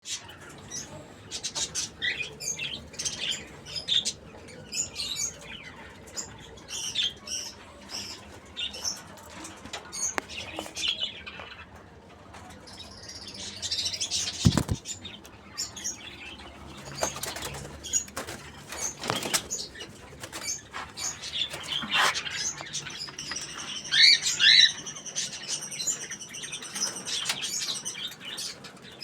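Cockatiels in their cage chirping in short calls, with knocks and rustling among them; a louder call with several tones comes near the end.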